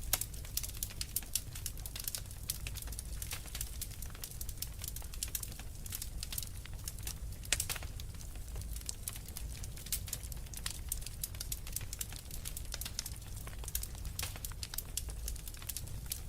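Wood fire in a fireplace crackling, with rapid irregular snaps and pops over a low steady rumble of burning logs, and one louder pop about seven and a half seconds in.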